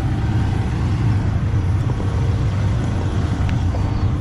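Combine harvester running steadily while picking corn, a continuous low engine and machinery drone.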